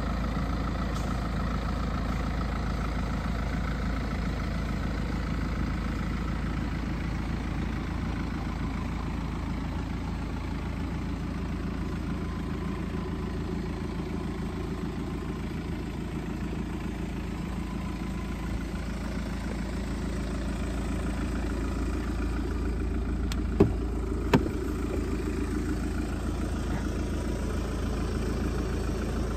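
BMW 520d's 2.0-litre four-cylinder turbodiesel idling steadily. Two sharp clicks about a second apart come near the end.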